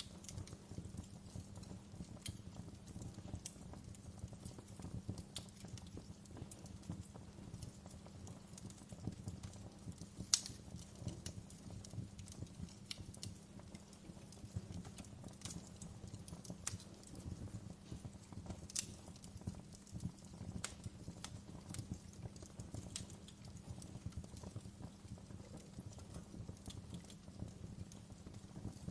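Wood fire crackling in a fireplace: irregular sharp pops and snaps over a steady low rumble of the flames, with one louder pop about ten seconds in.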